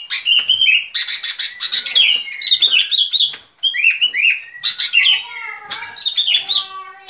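Bulbul (bông lau) song: quick, bubbly whistled phrases repeated over and over, with short rising and falling notes. This is the call used as a lure for trapping the species.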